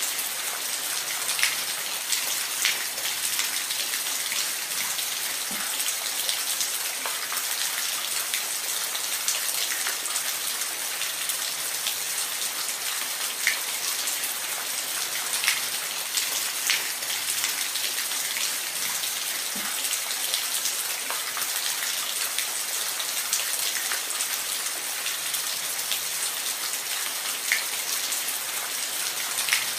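Waterfall ambience: a steady hiss of falling water, bright and with little low rumble, dotted with scattered sharp drip-like ticks.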